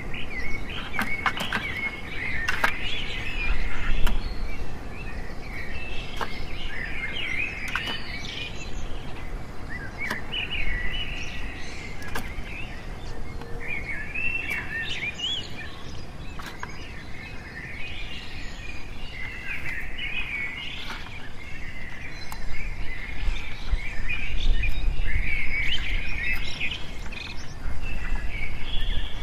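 Birds chirping and singing almost without a break, with scattered sharp clicks and a low rumbling noise that grows heavier in the last few seconds.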